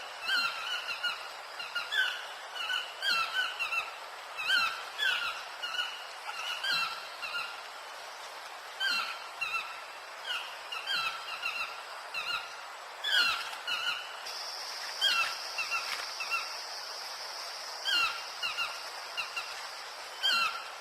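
A bird giving short, squeaky calls over and over in loose bursts. A steady high hiss joins about two-thirds of the way through and stops shortly before the end.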